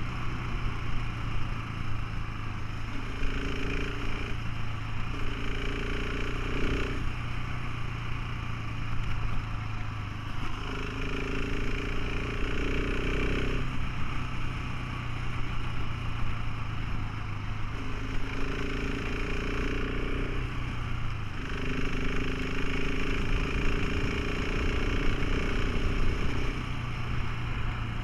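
Motorcycle engine running steadily while riding, over a dense low rumble; a second, higher set of tones comes and goes several times.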